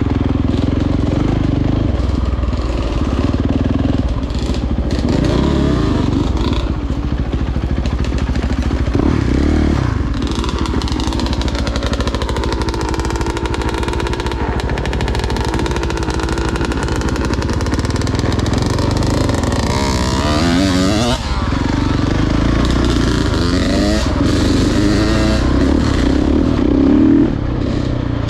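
Dirt bike engine running under way on a trail, its revs rising and falling again and again as the throttle opens and closes.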